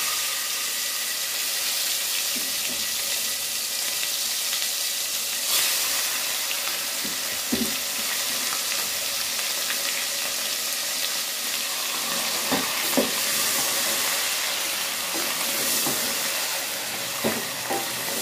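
Ground masala paste sizzling in hot oil and cumin in an aluminium pressure cooker: a steady frying hiss that starts sharply as the paste goes in, the first stage of frying the masala. A few short knocks come through, and a wooden spoon starts stirring near the end.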